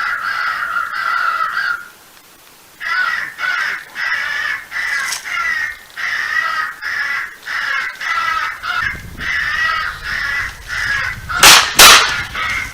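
Crows cawing in a rapid, repeated series after one long drawn-out call at the start. Two shotgun blasts go off in quick succession near the end.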